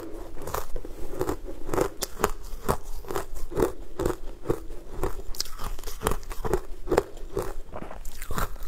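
Close-miked chewing of crunchy frozen sweet ice, a run of crisp crunches about twice a second.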